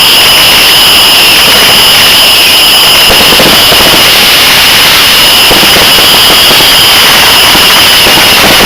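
Consumer (1.4G) fireworks going off: a steady, very loud hiss with a constant high tone and a few scattered crackles.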